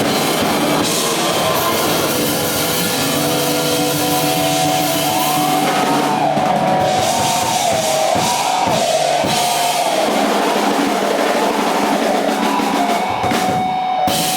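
Live rock band playing loudly on drum kit and amplified instruments, the end of a song. From about five seconds in a high melody line wavers up and down, then settles on one held note near the end.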